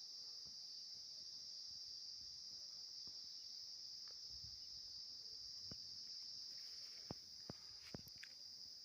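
Faint, steady high-pitched chorus of insects, crickets-like, with a few sharp clicks near the end.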